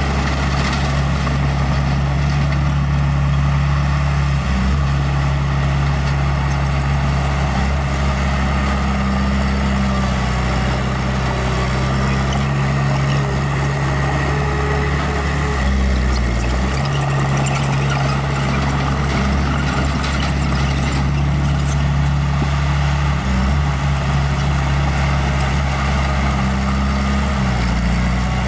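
Small bulldozer's diesel engine running steadily, with its note shifting briefly about halfway through.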